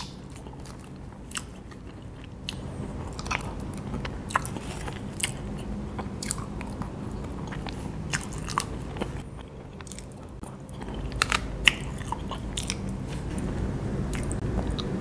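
Close-up chewing and wet mouth sounds of eating a soft molten chocolate lava cake, with many scattered small clicks.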